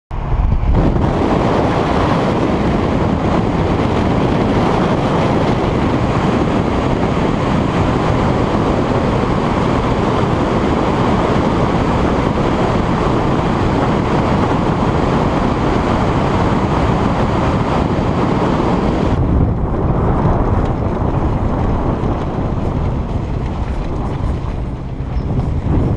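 Loud, steady rushing of a waterfall, with wind rumbling on the microphone; the sound turns duller about three-quarters of the way through.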